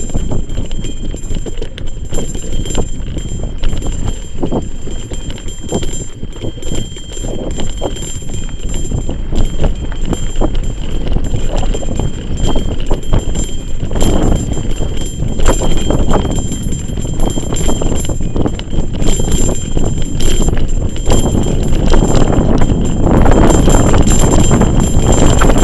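Mountain bike rattling and knocking over a rough dirt trail, picked up by a bike-mounted action camera with heavy wind rumble on the microphone; it gets louder over the last few seconds.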